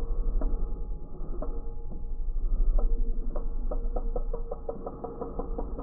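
Fishing reel clicking in quick, even runs as it is cranked, stopping for a couple of seconds about a second in and then starting again. Wind rumbles on the microphone throughout.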